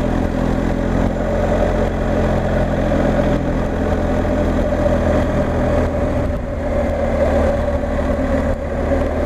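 BMW R 1250 GS Adventure's boxer twin running at a steady cruise, with a constant wind and road rush behind it.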